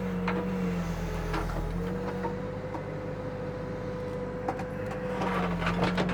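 Backhoe engine running steadily while the hydraulics work the bucket. Its note shifts and steps up about two seconds in as the load changes, with a few faint knocks.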